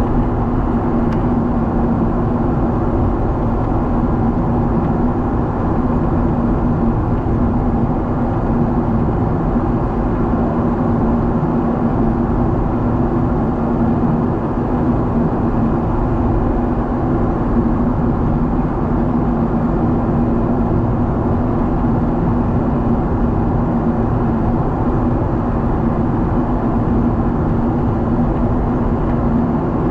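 Steady in-flight cabin noise of a Boeing 777 airliner: a constant rush of engine and airflow with a steady low hum underneath.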